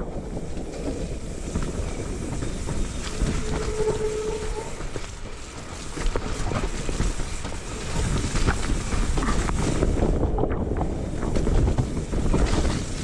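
Mountain bike ridden fast down a rough trail: tyres rumbling over the ground, with a constant clattering of chain and frame and many small knocks, and wind rushing over the microphone. A short steady squeal sounds about three seconds in.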